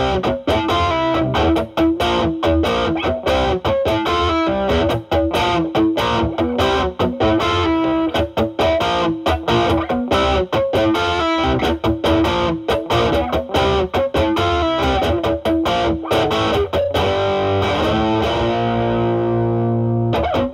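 Overdriven electric guitar: a single-coil Stratocaster through a Ceriatone Centura overdrive pedal (a Klon Centaur clone) into a Marshall Valvestate amp's drive channel. It plays a run of quick picked lead notes, then a chord is left ringing for about three seconds near the end.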